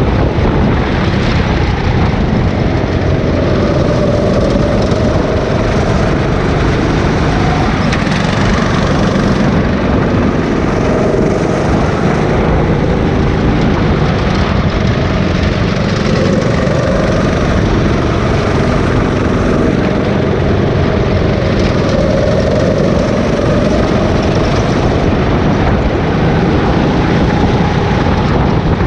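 Rental go-kart engine running hard, its pitch rising and falling every few seconds as the kart accelerates and brakes through the corners, with a heavy rumble of wind on the microphone.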